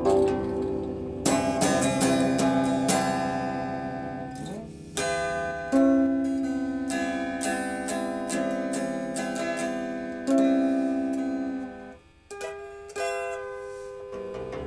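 Slow instrumental music on a plucked string instrument of the zither kind: single notes and chords are struck and left to ring and fade, with a short near-pause about twelve seconds in.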